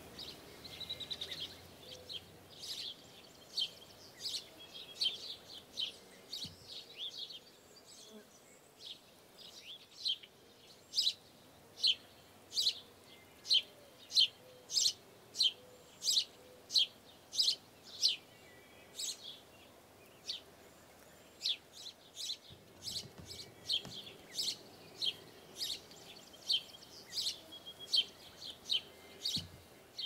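High, sharp bird chirps repeated over and over, about two a second through the middle, loudest there, over a faint outdoor background.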